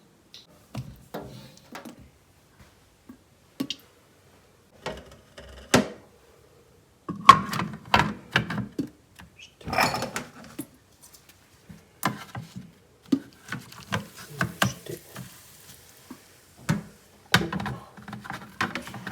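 Irregular knocks, thunks and clicks of hard plastic parts being handled and fitted together, as the cat's automatic water fountain is set up. A brief faint hiss about three-quarters of the way through.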